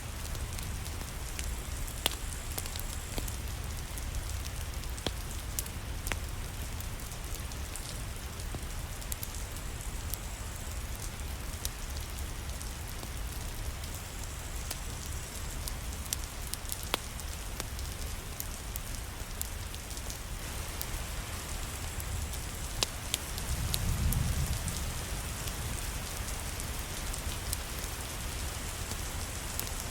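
Steady rain falling, an even hiss dotted with scattered sharp clicks. A low rumble swells for a couple of seconds about 24 seconds in.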